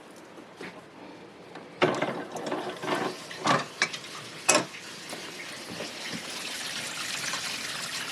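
Water running through newly fitted RV plumbing, growing steadily louder through the second half. Before it come a few sharp knocks and clatters.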